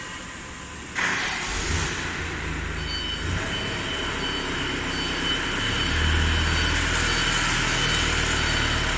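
Plywood cold press machine running: a steady mechanical noise with a low hum that starts suddenly about a second in and gets louder about six seconds in.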